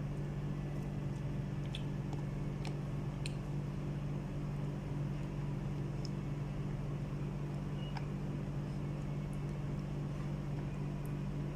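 A steady low machine hum, with a few faint small clicks of eating with utensils: a cluster about two to three seconds in and one more near eight seconds.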